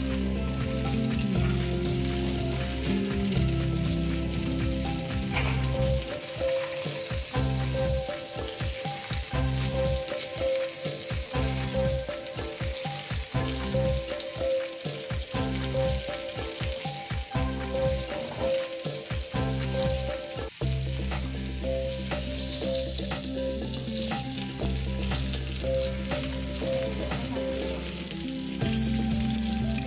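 Minced-meat kebabs sizzling steadily as they shallow-fry in hot oil in a nonstick pan, under soft background music.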